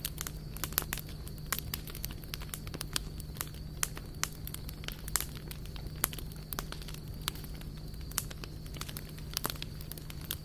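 Wood fire crackling, with irregular sharp pops and snaps scattered throughout over a steady low hum.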